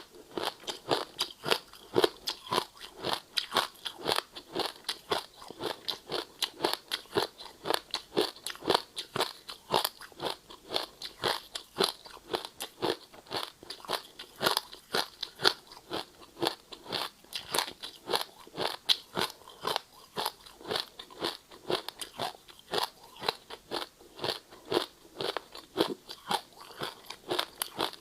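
Ice being bitten and chewed: a fast, steady run of loud crunches, about three a second.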